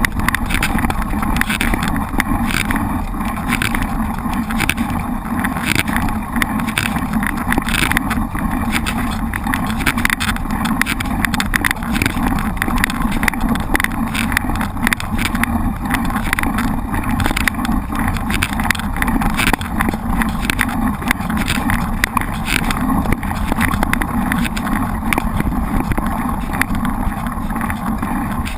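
Mountain bike rolling over a rough trail, with the bike and camera mount rattling and knocking irregularly over a steady low rumble of wind and tyre noise on the microphone.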